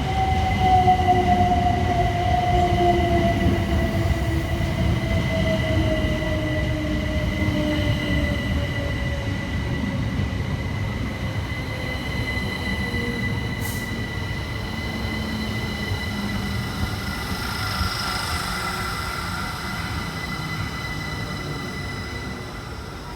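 Two coupled Southern Class 377 Electrostar electric units slowing into a station: the traction motor whine falls steadily in pitch over roughly the first half. A steady high whine and the low rumble of wheels on rail run under it, and the sound fades gradually.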